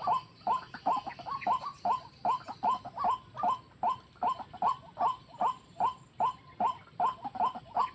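White-breasted waterhen (ruak-ruak) calling: a long, even run of short repeated calls, about two or three a second.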